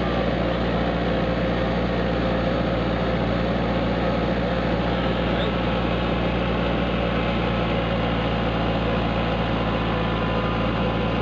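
Kubota tractor's diesel engine running steadily at a constant speed, with a rough, even drone.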